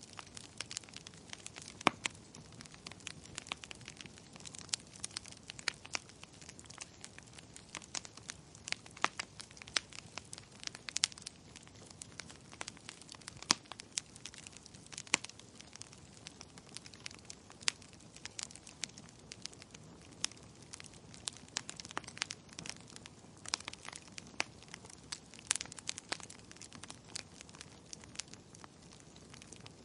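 Wood fire crackling: frequent irregular sharp pops and snaps over a soft steady hiss.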